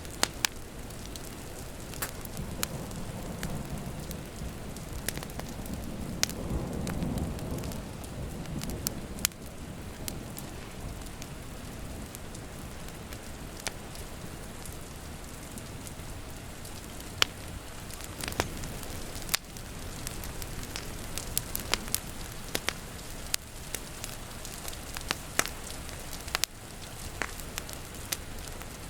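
Wood fire crackling, with sharp pops and snaps scattered throughout, over a steady hiss of rain. A low rumble of distant thunder swells from about two seconds in and fades by about nine seconds.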